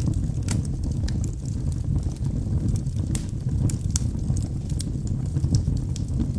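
Wood fire burning in a fireplace: a steady low rumble of flame with irregular crackles and sharp pops from the burning logs, several a second, a few louder ones standing out.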